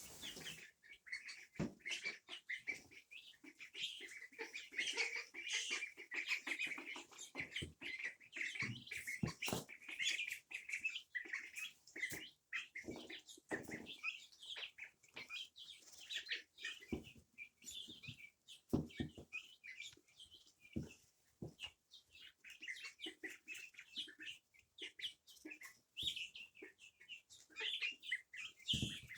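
A flock of domestic birds chirping continuously, with scattered short knocks and clicks mixed in.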